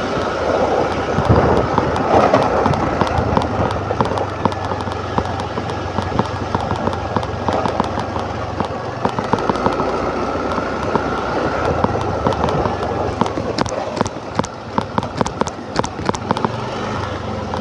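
Scooter ride noise: a steady low engine hum with rushing air, overlaid by many sharp crackling pops that come thickest near the end.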